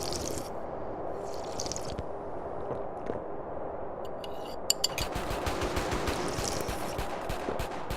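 Tea being sipped and slurped, a wet crackling with runs of quick clicks, the loudest cluster a little past halfway.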